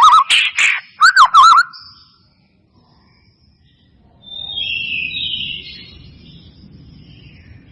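White-rumped shama (murai batu) song: loud, fast whistled notes that swoop up and down, mixed with sharp clicks, for about a second and a half. After a pause, softer rapid twittering starts about four seconds in.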